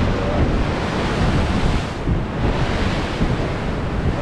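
Choppy Atlantic surf washing and breaking below a pier, the hiss of the water surging and easing with a brief lull about two seconds in. Strong wind buffets the microphone throughout with a heavy rumble.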